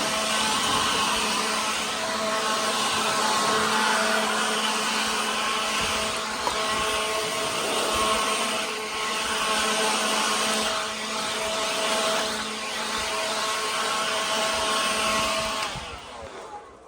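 A high-speed electric motor moving air, running steadily with a hum and a rushing hiss, then switched off and spinning down near the end.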